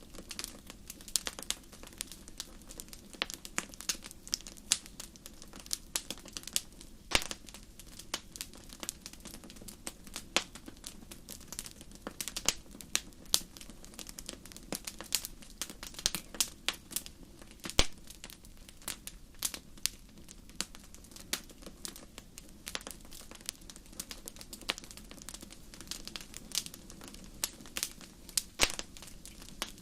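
Wood campfire crackling: irregular sharp pops and snaps, several a second, over a low steady hiss of burning.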